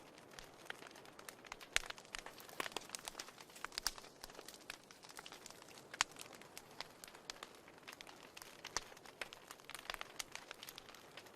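Wood fire in a fireplace crackling: irregular sharp pops and snaps over a soft hiss, with a few louder pops about two, four and six seconds in.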